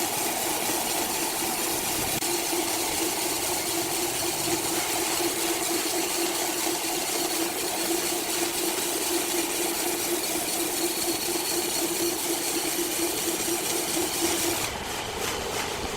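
Sawmill saw machinery running steadily: a constant mid-pitched hum over a wide hiss. The hum stops abruptly about a second before the end.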